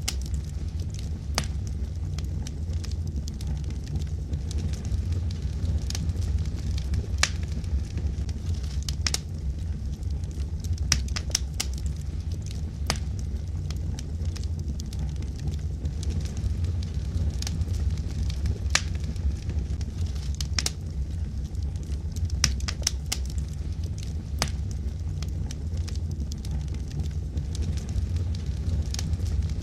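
Wood fire burning in a fireplace: a steady low rumble of flames with irregular sharp crackles and pops from the logs, some coming in quick clusters.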